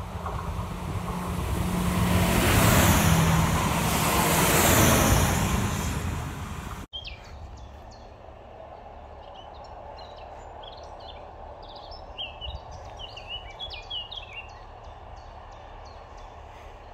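A diesel-hauled train passes close by: a rumble with a low engine hum swells and fades over about seven seconds. It cuts off suddenly into quiet outdoor ambience, where small birds chirp repeatedly for several seconds.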